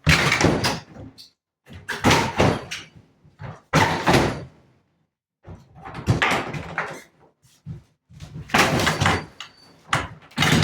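Old furniture being knocked apart during demolition: about six loud bangs with scraping, each lasting up to a second, coming roughly every two seconds.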